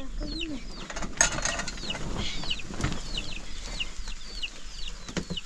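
Chicks peeping: a steady string of short, high, falling peeps, about two a second. A sharp knock comes about a second in.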